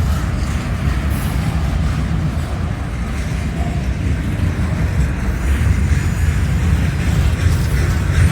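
Train rolling past on the rails: a steady, loud low rumble of wheels and cars.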